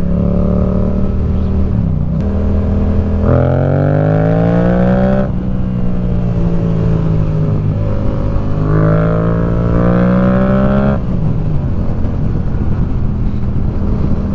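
Motorcycle engine under way, revving up twice: the pitch climbs about three seconds in and again near nine seconds, falling back in between, and the throttle comes off about eleven seconds in. A steady rush of wind and road noise runs underneath.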